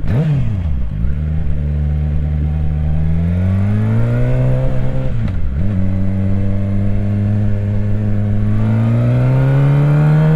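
Suzuki GSX-R 750 inline-four engine under way on the road, pulling through the gears. The revs climb, drop sharply at a gear change just after the start and again about halfway, hold steady for a few seconds, then rise again near the end.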